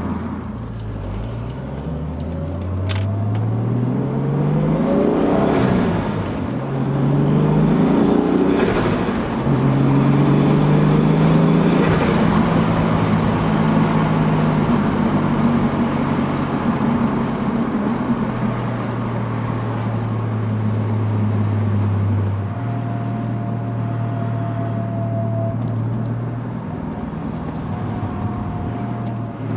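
Toyota Supra Mk3's turbocharged 7M-GTE 3.0-litre inline-six under acceleration, heard onboard. Its pitch climbs and drops back three times in the first dozen seconds as it goes up through the gears, then it holds a steady note while cruising, settling lower about two-thirds of the way in.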